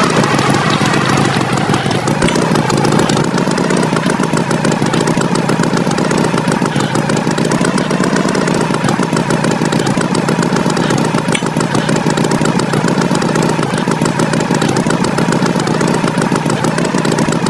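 Tractor engine sound effect running steadily with a fast, even chugging pulse.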